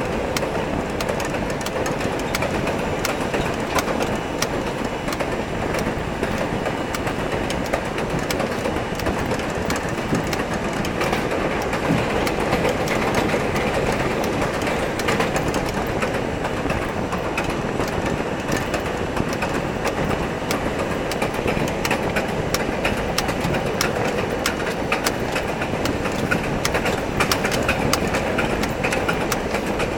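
R42 subway car running at speed on the elevated line: a steady rumble of steel wheels on rail, scattered with frequent sharp clicks from rail joints and track.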